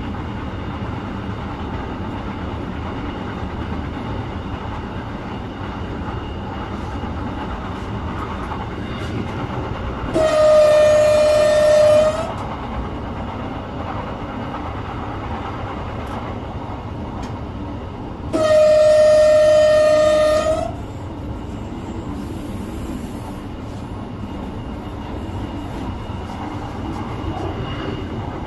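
Passenger train running along the line, heard from on board as a steady rumble of wheels on track. The train's horn sounds two long single-note blasts of about two seconds each: the first about ten seconds in, the second some eight seconds later.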